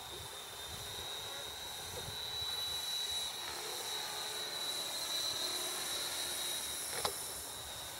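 Electric radio-controlled model aircraft flying overhead: a steady high motor whine that swells a little in the middle, with one short click about seven seconds in.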